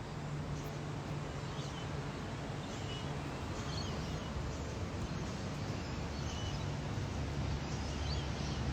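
Faint, short bird calls scattered over a steady low hum and outdoor background noise.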